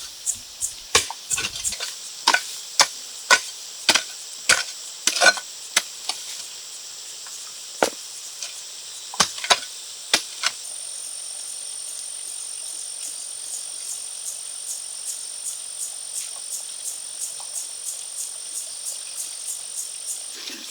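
Sharp knocks like chopping, about two a second for the first six seconds, then a few scattered ones. From about ten seconds in, a high thin insect chirp pulses evenly about twice a second over a steady high insect hiss.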